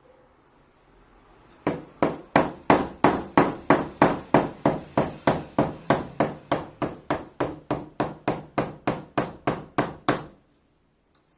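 Hammer striking in a steady, quick rhythm, about thirty blows at roughly four a second. The blows ease off a little toward the end and stop suddenly.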